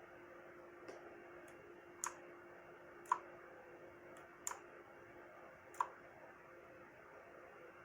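Computer mouse clicking during CAD work: about five faint, sharp clicks, irregularly spaced about a second apart, over a low steady hum.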